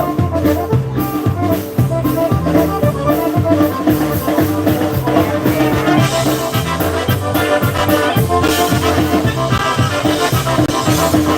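Polka band playing live, an instrumental passage with brass over a steady oom-pah beat and repeating bass line.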